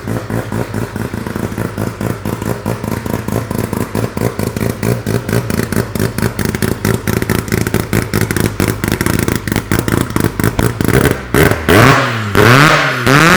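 A Formula Mazda race car's rotary engine idling with a choppy, pulsing exhaust note that quickens slightly, then revved up and let fall back twice in quick succession near the end.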